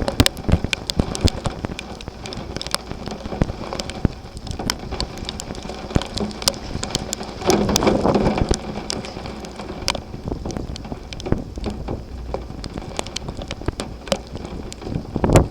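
Thunderstorm rain falling hard, with many separate drops striking close by as sharp ticks over a steady hiss. A louder rush comes about halfway in and again near the end.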